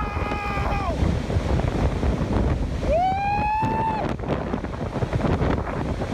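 Strong wind blowing across the microphone, with two long high-pitched wails over it: one falling away about a second in, another rising and held from about three to four seconds.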